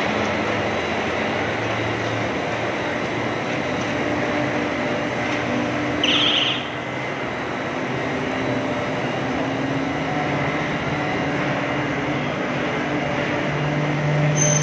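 Steady running noise of a glass tempering furnace line, a constant machine hum, with a brief high hiss about six seconds in.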